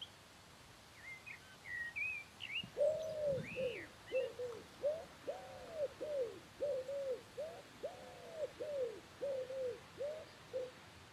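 Birds calling: a few short, high chirps, then, from about three seconds in, a run of about a dozen low, arched cooing notes in steady succession.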